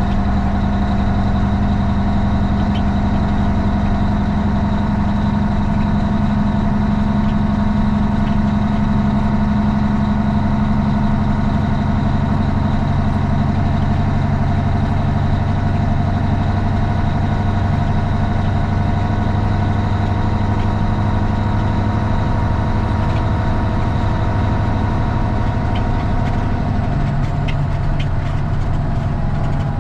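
Straight-piped Cummins ISX diesel of a Kenworth T800 running at a steady, low engine speed, heard from inside the cab. Its note shifts slightly near the end.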